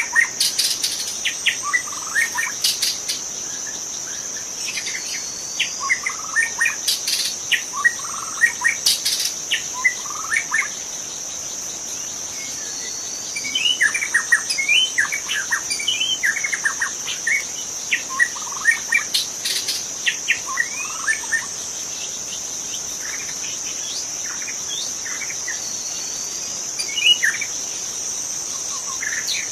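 White-rumped shama singing in bursts of varied quick whistles and sharp notes, with short pauses between phrases, over a steady high-pitched insect drone.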